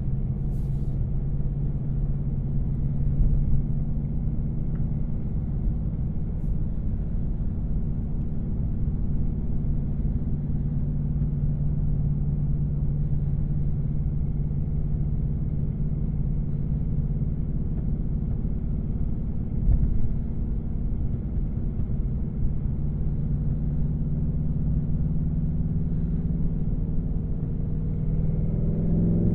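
2024 Mustang GT's 5.0-litre V8, still on its stock headers, running at a steady cruise: an even low drone with road noise and a brief thump about two-thirds of the way through. Near the end the engine note rises as the car accelerates.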